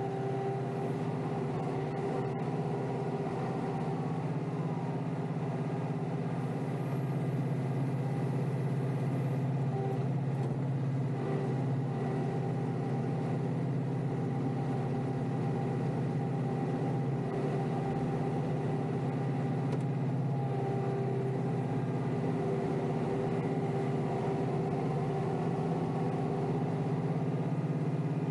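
Kioti DK5320SE compact tractor's diesel engine running steadily while pushing snow, getting a little louder about seven seconds in.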